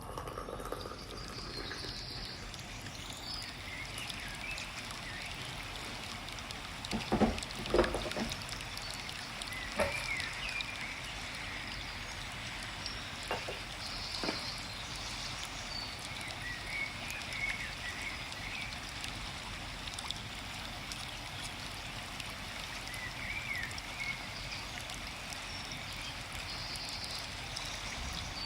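Forest stream running steadily, with birds chirping now and then. A few short knocks and clinks break in, two loud ones about seven to eight seconds in and smaller ones later, likely tea ware being handled.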